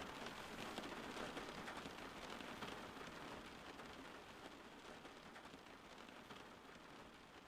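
Rain falling steadily: an even hiss peppered with many small drop ticks, easing off slightly toward the end.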